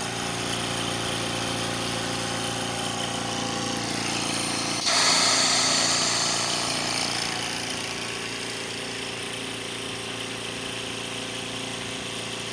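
Invacare Platinum 10 oxygen concentrator running on its replacement 2660 compressor, a steady even hum that sounds good with no abnormal noise. About five seconds in there is a sudden hiss of air that fades away over a few seconds.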